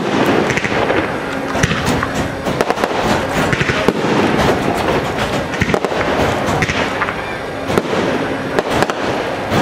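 Aerial fireworks shells bursting in quick succession: a continuous din of bangs and pops, with sharp louder reports standing out now and then.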